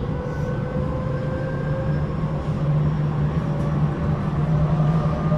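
Tobu 9050 series electric train's Toyo GTO-thyristor VVVF inverter and traction motors, heard inside the motor car, whining in several tones that climb slowly in pitch as the train gathers speed, over the steady low rumble of the running gear.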